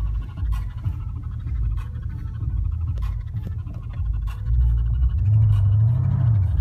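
Engine of a 750 hp tuned TechArt Grand GT (Porsche Panamera-based), heard from inside the cabin as a low rumble while the car creeps slowly. About four and a half seconds in it swells and rises in pitch, then eases off. Light scratching clicks sound on top.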